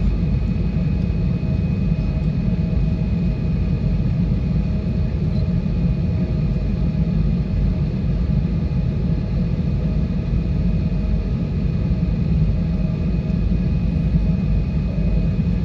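Steady cabin noise inside an Airbus A320-232 airliner: a constant low rumble of its IAE V2500 engines and airflow, with a few faint steady whining tones above it.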